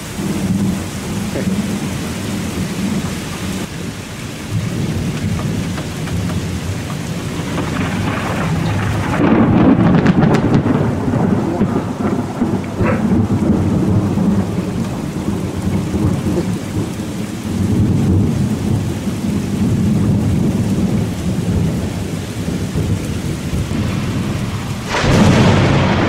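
Thunder rumbling over heavy rain in a severe thunderstorm. The rumble swells loudest about nine to ten seconds in, and a new sudden loud peal of thunder breaks near the end.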